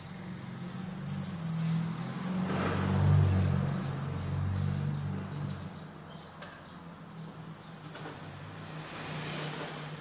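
A bird chirping over and over, short high chirps a little over two a second, over a low rumble that swells about three seconds in and then fades.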